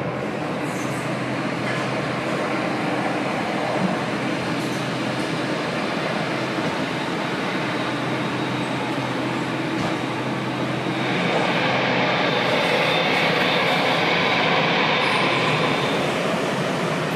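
Jet airliner engine noise, a steady rush that gets louder and brighter about eleven seconds in.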